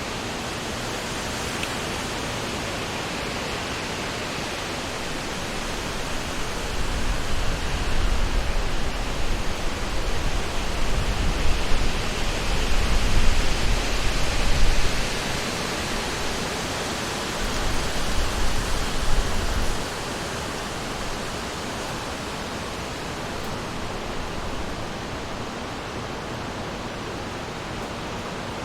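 Summer wind through forest trees: a steady rushing hiss of moving leaves. Stronger gusts swell in about a quarter of the way through and bring a low rumble, ease off, then come back once more briefly before the wind settles to its steady level.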